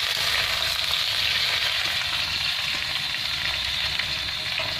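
Food sizzling steadily as it fries in hot oil in a pan, with a low rumble underneath.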